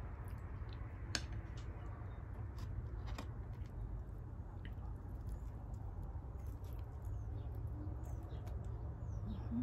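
A person chewing food close to the microphone, with small mouth smacks and a few sharp clicks, the clearest about a second in and about three seconds in. A steady low hum runs underneath.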